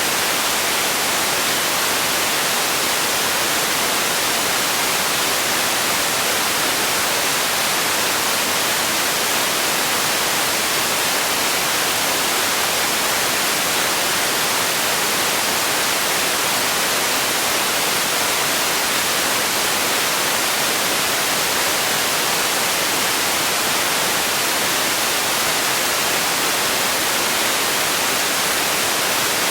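Steady, unchanging hiss of relaxation noise, with most of its energy in the highs, like static.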